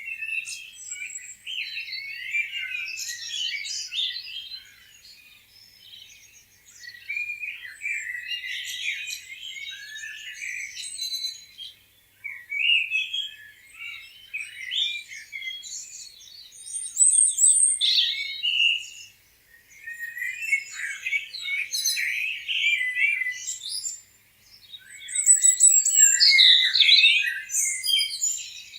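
Several songbirds chirping and singing over one another in bursts of quick high notes and trills, with short lulls between the bursts.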